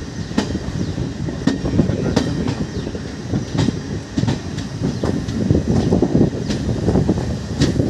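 Passenger train running through a station, heard from a coach: a steady rumble of wheels on track, with a sharp clack of the wheels over rail joints roughly every second.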